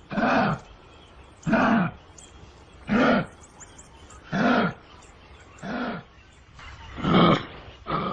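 An animal calling over and over: about seven short calls, each rising and falling in pitch, one every second and a half or so.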